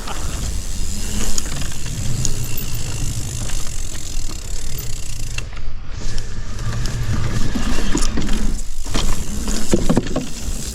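Mountain bike being ridden over a trail: tyres rolling and crunching on the ground, with the chain and hub rattling and clicking. A steady low rumble runs under it, with a couple of brief lulls.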